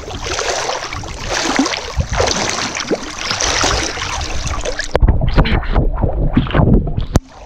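Lake water splashing and sloshing close to the microphone, mixed with wind buffeting. From about five seconds in, a heavier low rumbling with quick irregular splashes takes over, then cuts off abruptly near the end.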